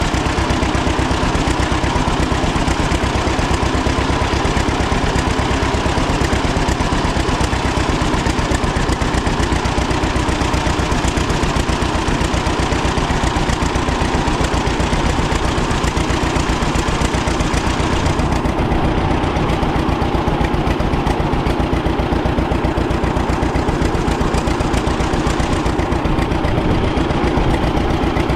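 1936 John Deere Model A's two-cylinder engine running steadily at idle, with an even, rapid beat of firing pulses.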